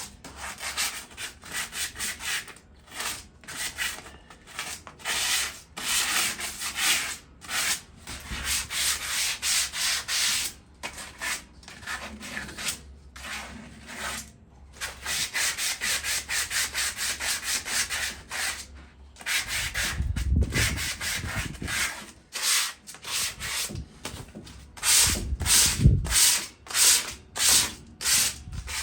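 Sandpaper scraped back and forth by hand over a rusted metal patio chair, removing surface rust in quick repeated rasping strokes with brief pauses. A couple of low thumps come about two-thirds of the way through and again near the end.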